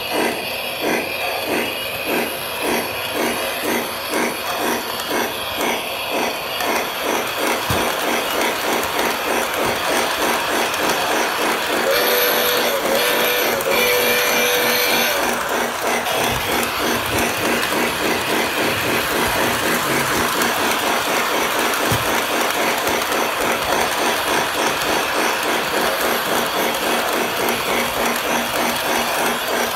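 O scale model train running, with a rhythmic beat that quickens as it goes. A whistle sounds three short blasts about twelve seconds in.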